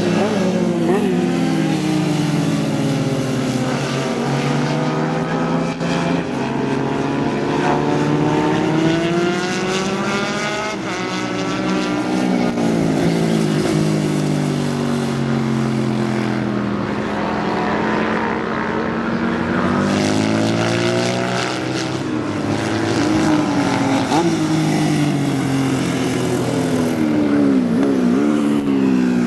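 Several vintage racing motorcycle engines running at full song, their overlapping notes rising and falling again and again as the bikes accelerate, change gear and pass.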